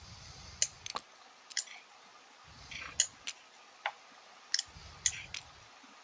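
Computer mouse clicking: about ten sharp, short clicks at uneven spacing, some in quick pairs, with a few faint low rumbles in between.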